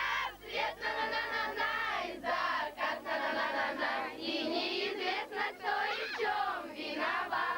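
Many children's voices singing and calling out together as a group, many overlapping high voices at once.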